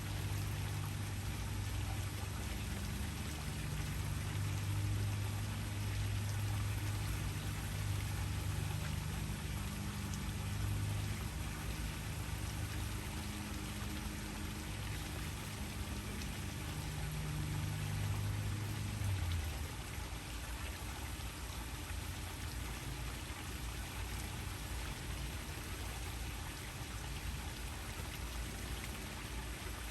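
Waterfall: a steady rush of falling water. A low hum sits underneath it and stops about two-thirds of the way through.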